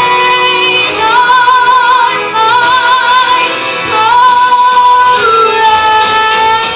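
A female vocalist sings long, held notes with vibrato over instrumental backing, in a show-tune vocal performance.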